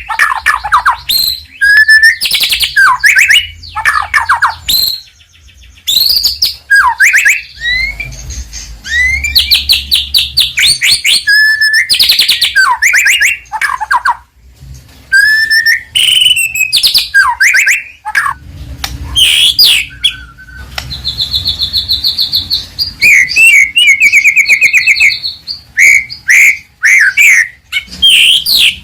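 White-rumped shama (murai batu) singing loudly in a varied song of rapid trills, gliding whistles and chattering phrases, with short pauses between phrases.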